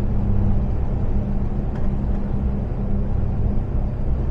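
Iveco Stralis 510 truck's diesel engine and road noise heard inside the cab while driving: a steady low drone with a faint engine hum running through it.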